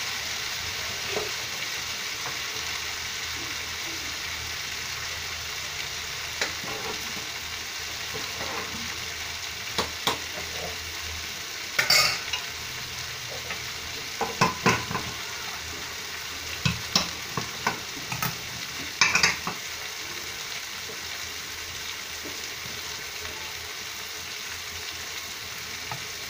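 Green banana (vazhakkai) pieces frying in oil in a non-stick pan over a gas flame, well coloured and browning. The pan gives a steady sizzle, with a scattered run of sharp clicks and pops in the middle stretch.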